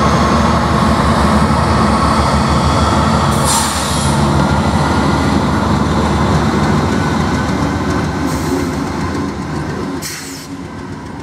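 Freight train passing close by at a grade crossing: covered hopper cars rumbling and clattering steadily over the rails, with three brief high screeches from the wheels, the sound easing off near the end.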